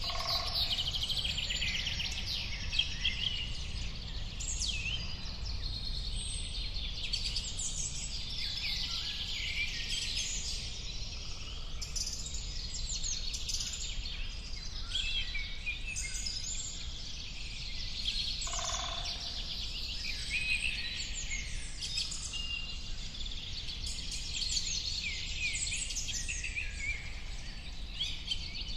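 Many small birds singing and chirping at once, a dense unbroken chorus of quick high trills and notes, over a steady low outdoor rumble. A brief lower two-note call cuts in at the start and again about two-thirds of the way through.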